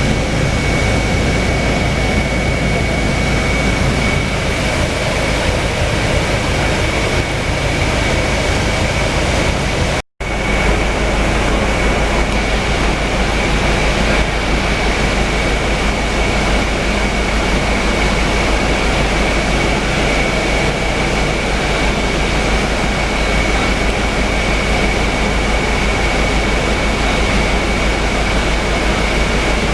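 Scania K320UA city bus with a Caio Mondego II body under way, heard from inside the cabin: steady engine and road noise with a thin, steady high whine running through it. The sound cuts out completely for a split second about ten seconds in.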